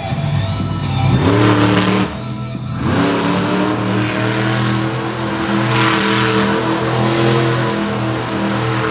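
Monster truck engine revving hard. The pitch climbs about a second in and drops briefly near two seconds, then the engine is held at high revs with repeated surges.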